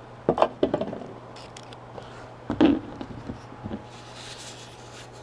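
Handling noise from a small acrylic watch display box: a few knocks and clicks as it is picked up and moved, the loudest about a third of a second in and about two and a half seconds in, then a soft rustle near the end.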